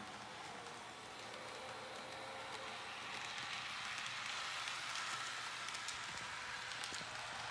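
Tomix narrow-gauge model train running along the layout's track: a steady rolling hiss with a faint motor whine, growing slowly louder as it comes closer, with a few light clicks near the end.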